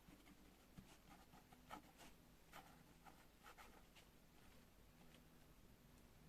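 Faint pen scratching on paper in short writing strokes, a handful over the first four seconds, then tapering off.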